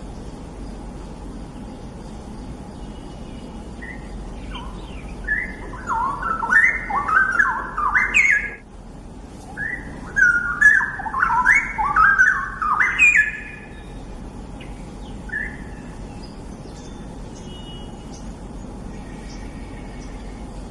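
Straw-headed bulbul (cucak rawa) singing two loud phrases of rapid, rich warbling whistles, the first about five seconds in and the second about ten seconds in, each lasting about three seconds, with one short note after them. A steady low background hum runs underneath.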